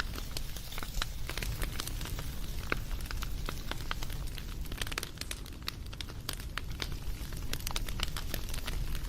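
Wood fire crackling: many irregular sharp pops and snaps over a low, steady rumble of burning.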